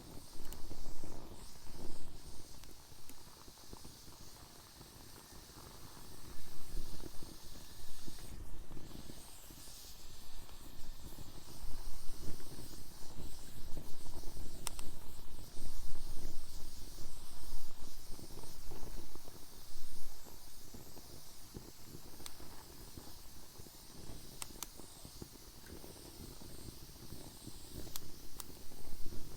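Wood fire burning in a fire pit: a steady hiss with a low rumble that swells and fades, and a few sharp crackling pops.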